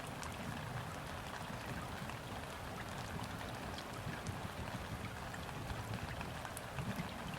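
Steady gentle rain falling onto river water, an even hiss with individual drops ticking through it, over a low, uneven rumble.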